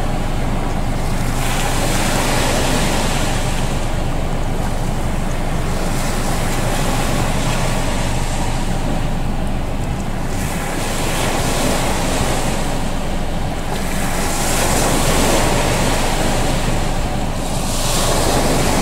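Waves washing on the shore with wind on the microphone; the surf swells and fades every few seconds.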